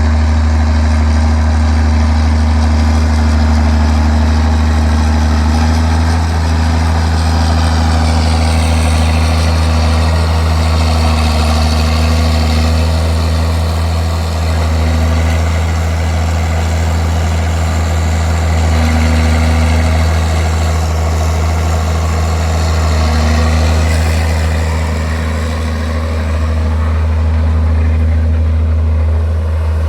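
Straight-piped John Deere 4630's turbocharged six-cylinder diesel running steadily with no muffler, dipping slightly in pitch about eight seconds in and rising again near twenty-four seconds.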